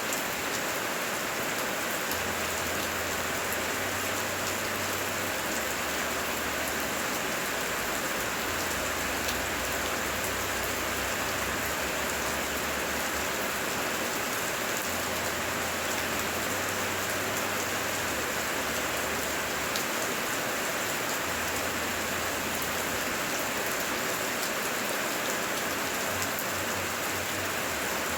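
Heavy rain pouring steadily, a dense even hiss of drops. A faint low rumble comes and goes underneath.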